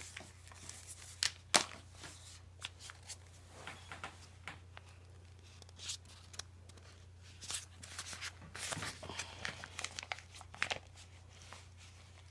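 Plastic pouch of Beech-Nut Original loose-leaf chewing tobacco crinkling in short, irregular bursts as it is handled and a wad of tobacco is pulled out. A low steady hum sits underneath.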